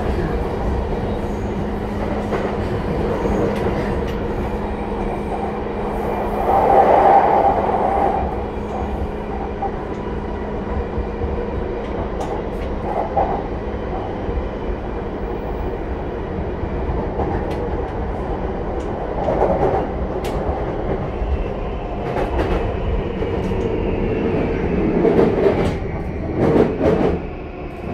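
Running noise inside a JR East E235-0 series electric train's motor car (Mitsubishi full-SiC VVVF traction): a steady hum from the traction motors and from the wheels on the rails, with clicks over rail joints. There is a louder rush about seven seconds in, and a faint falling whine near the end.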